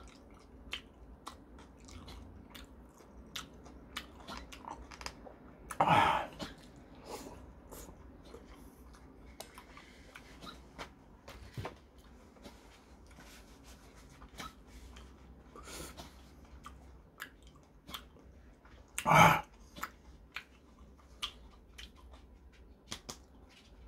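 A person chewing orange segments close to the microphone: a steady run of small wet mouth clicks and smacks, with two louder short sounds about six and nineteen seconds in.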